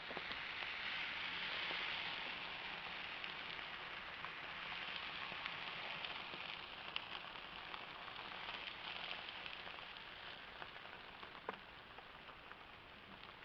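Fire in an old washing machine hissing and sizzling as it is doused with water, with scattered small crackles; the hiss is loudest in the first couple of seconds and fades slowly as the fire goes out.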